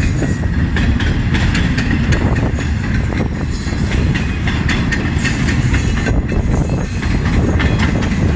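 CN freight train's cars rolling past, a loud steady rumble with the wheels clicking over the rail joints.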